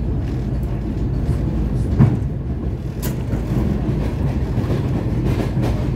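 Steady low rumble of a moving vehicle, with a sharp knock about two seconds in and a light click about a second later.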